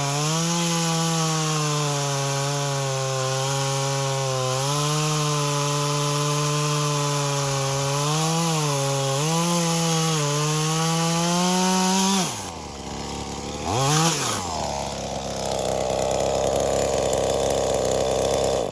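Small two-stroke engine of a V-Modest clone of the Echo 2511T top-handle chainsaw at full throttle cutting wood, its pitch sagging and recovering as the chain bites. About twelve seconds in it drops to idle, revs once briefly, then idles steadily, running well after a fresh carburettor tune.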